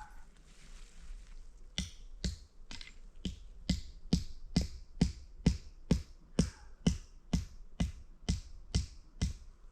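A steady series of about seventeen sharp strikes or crunches, a little over two a second, starting about two seconds in.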